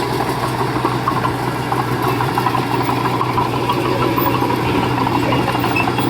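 Heavy-equipment diesel engine running steadily: a constant low engine tone with a fast clatter over it.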